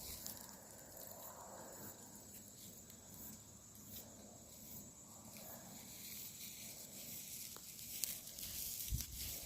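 Faint woodland ambience: a steady, high insect drone over soft background hiss. Near the end come a few light crunches, like footsteps on dry leaves.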